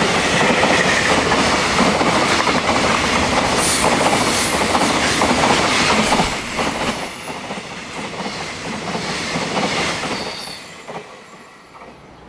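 Wagons of a high-speed freight train passing at speed, wheels running and clacking over the rails. The noise drops about six seconds in as the end of the train goes by, then fades away.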